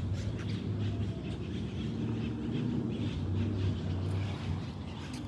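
A motor vehicle's engine running: a low, steady hum.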